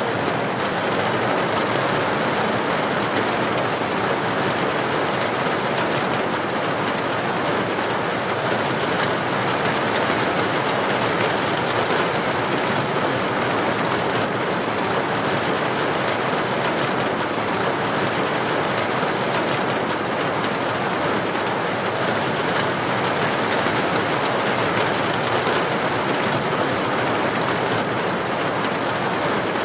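Heavy rain falling on a street, a steady, even hiss that does not change.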